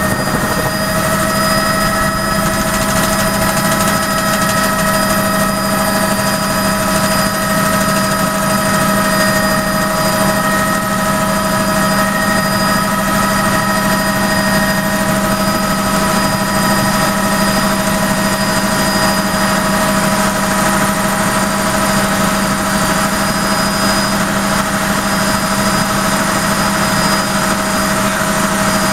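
Helicopter running steadily, heard from inside the cabin on a passenger ride: a constant loud rotor and engine noise with a whine of several held tones, unchanging throughout.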